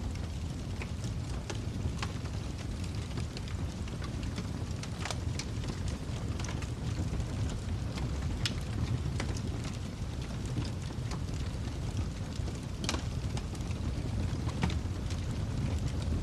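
Wood fire crackling in a fireplace: a steady low rumble of flames with irregular sharp pops scattered throughout, a few of them louder.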